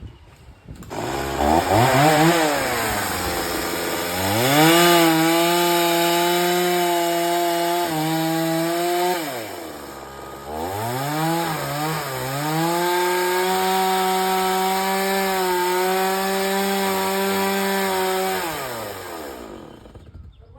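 Two-stroke chainsaw revving up and held at high speed, steady as it cuts through wood. It drops to idle about halfway, revs back up with a few quick blips to cut again, and winds down to idle near the end.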